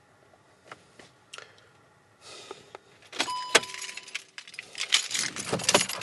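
Car keys jangling and clicking, with a short steady tone about three seconds in.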